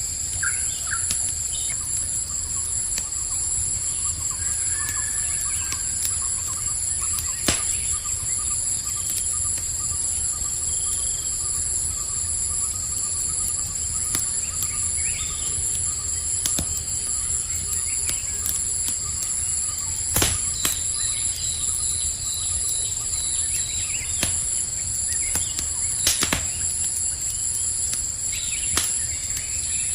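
Campfire crackling with a few sharp pops, under a steady chorus of crickets. Scattered short bird chirps come and go.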